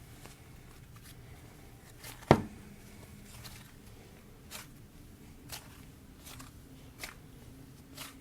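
Slime being stretched and squeezed by hand, giving a few soft sticky clicks and one sharp, louder click about two seconds in. The slime is stringy and full of threads, so it does not pop.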